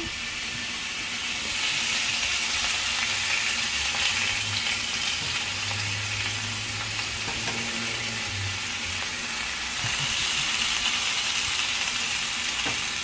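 Seared chicken thighs sizzling steadily on a very hot preheated cast-iron grill pan.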